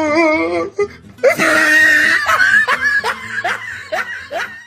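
A person laughing: a wavering, drawn-out laugh, then a loud shrill shriek of laughter about a second in, trailing off into a run of short 'ha' pulses about three or four a second.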